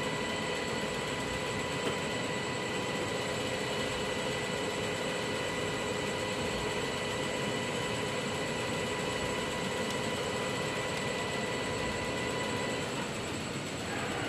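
Milling machine spindle motor running at a steady speed with a steady whine, with no cutting sounds. It winds down near the end.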